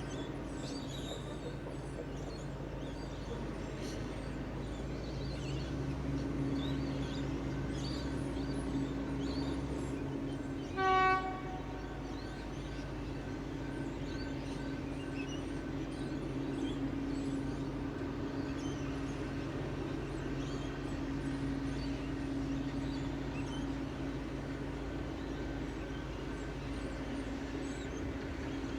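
Diesel locomotive of a narrow-gauge sugar train running steadily, growing a little louder from about six seconds in, with one short horn blast about eleven seconds in.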